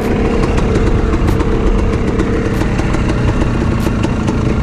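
Motocross bike engine running steadily, with a held engine note and an occasional sharp click.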